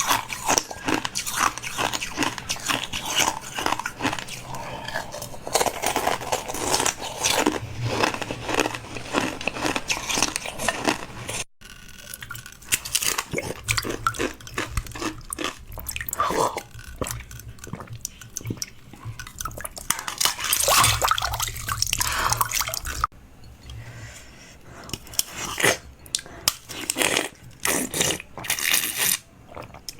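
Close-up eating sounds: chewing and biting into food, with many short crisp crunches. There is a brief break about a third of the way in.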